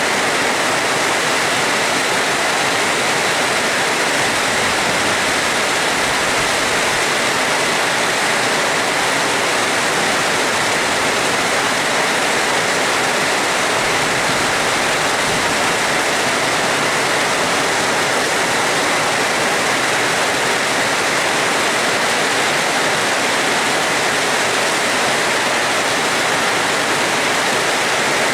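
Heavy rain falling, a dense, steady hiss that stays level throughout.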